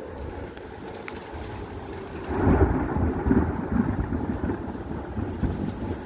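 Steady rain with a roll of thunder that breaks in about two seconds in and rumbles on, slowly fading.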